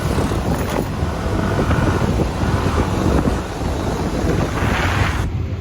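Wind buffeting the microphone of a moving motor scooter, over a steady low rumble of engine and road noise. Near the end the hiss swells briefly, then the sound abruptly turns duller.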